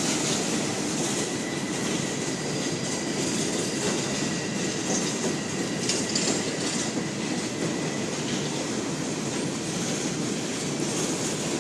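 Freight train cars rolling past with a steady rumble of wheels on rail and intermittent clicks at the rail joints. A faint thin wheel squeal sounds over it and fades out about eight seconds in.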